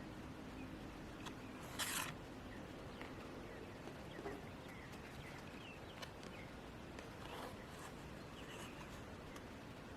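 Faint steady hiss with a few short, high chirps in small groups and a brief rush of noise about two seconds in.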